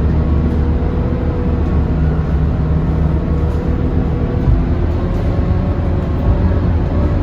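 Scania K230UB city bus with its five-cylinder diesel engine running steadily under way, heard on board as a constant low rumble with a faint steady engine tone.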